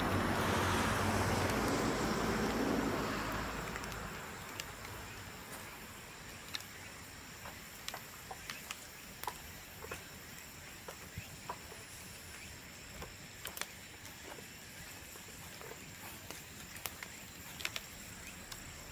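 A bamboo bonfire crackling and popping in sharp, irregular snaps. In the first few seconds a steady engine-like noise with a low hum fades away.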